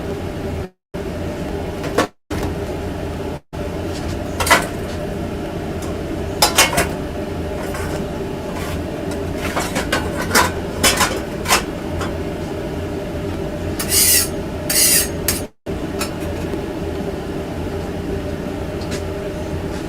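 Steady machine hum in a food trailer kitchen, with scattered clinks and clatters of utensils and dishes, a cluster of them about halfway through. The sound cuts out completely a few times for a moment, like a stream dropping out.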